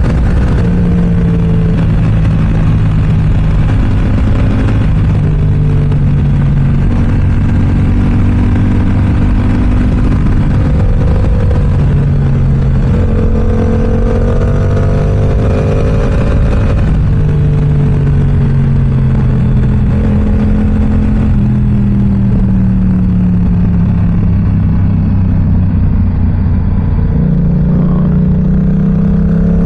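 Yamaha R7's 689 cc parallel-twin engine running through an aftermarket M4 exhaust under riding. It revs up and drops back over and over, with pitch climbing through the gears and stepping down at shifts and roll-offs.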